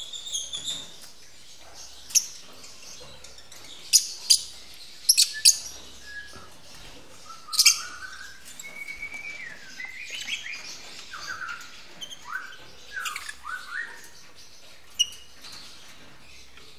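Lovebirds chirping: loud, sharp chirps every second or two, with a run of softer, shorter gliding chirps in the middle.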